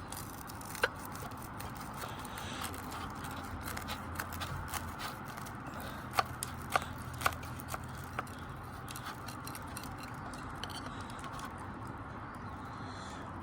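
Wood fire burning with a steady low rush and a handful of sharp pops, the loudest clustered about six to eight seconds in.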